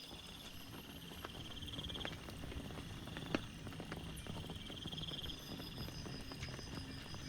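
Rain pattering and dripping, with many irregular sharp drop taps and one louder tap about three seconds in. A high pulsing trill swells and fades twice.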